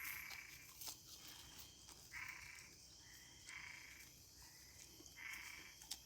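Frogs calling faintly: four short calls of about half a second each, spaced a second or two apart, with a couple of faint clicks between them.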